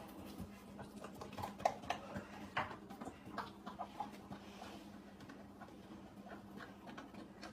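A dog licking and lapping at a puppuccino, whipped cream in a small cup: quick, irregular licking sounds, busiest in the first few seconds and fainter after, over a faint steady hum.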